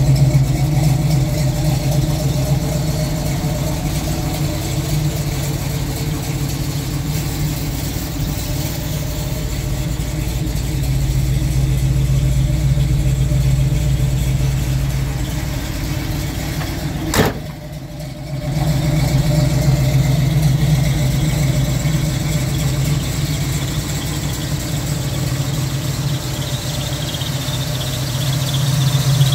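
1969 Chevelle's V8 engine idling steadily, a low, even hum, broken once by a click and a second-long dip about two-thirds of the way through.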